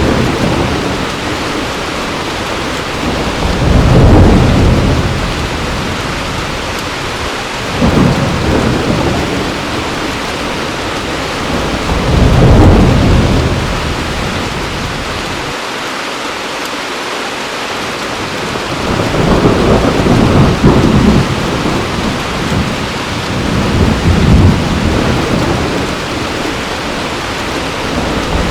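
Heavy rain falling steadily, with thunder rumbling in low rolls about five times, each swelling and fading over a second or two.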